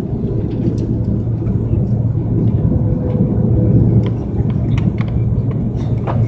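Steady low rumble and hum inside the cabin of an Airbus A330 airliner, with scattered small clicks and knocks.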